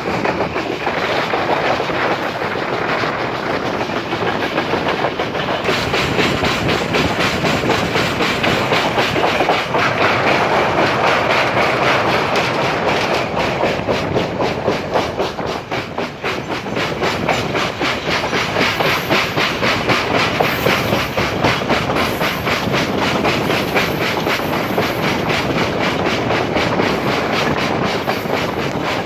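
Express passenger train running at speed, its wheels clattering over the rails in a steady rumble. A few seconds in, a fast, even rattle sets in, and the sound eases briefly about midway.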